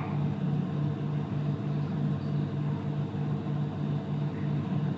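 A steady low mechanical hum that pulses evenly about two and a half times a second.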